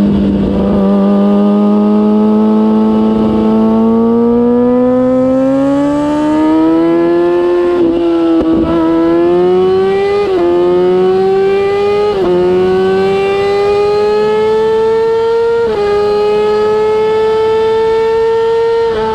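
Kawasaki ZX-6R inline-four through a MIVV GP exhaust, under way with the engine note climbing steadily in pitch. It has brief sharp breaks about four times, like quick upshifts, after each of which the climb picks up again.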